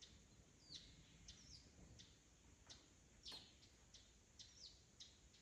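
Faint birds chirping, many short calls with some sweeping down in pitch, over near silence.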